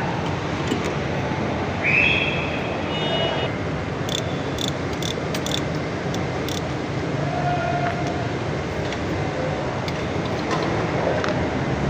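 Forklift's four-cylinder petrol engine running steadily, with a short high-pitched sound about two seconds in.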